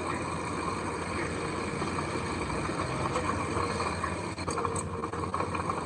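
A heavy construction machine's diesel engine running steadily, with a couple of faint clicks about four and a half seconds in.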